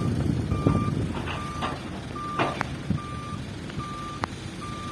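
Dump truck's reversing alarm beeping, one steady tone repeated a little faster than once a second, over the rumble of the truck's diesel engine, which eases after the first second. A few sharp clicks sound in between.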